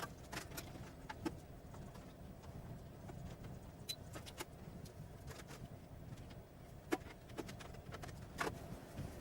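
Faint, scattered clicks and taps over a low hum: the plastic cover and lid of a split air-conditioner indoor unit being handled and fitted back into place.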